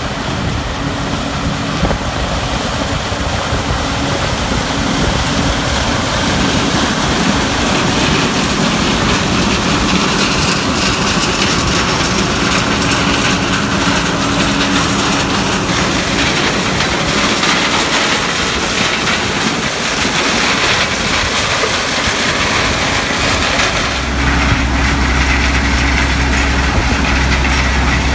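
Tractor engine running steadily under load, heard from on board with a wide mechanical rattle and rumble; a deep, steady low drone joins in near the end.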